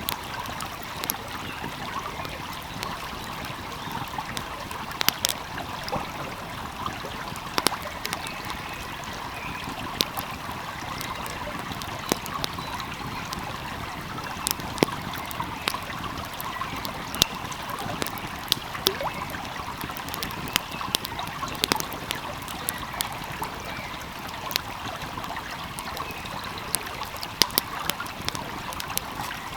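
Steady rushing and trickling of a flowing stream, with frequent sharp pops and crackles from a burning wood fire scattered on top.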